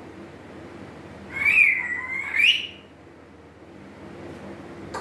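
African grey parrot giving one whistling call about a second and a half long, its pitch dipping and then rising at the end.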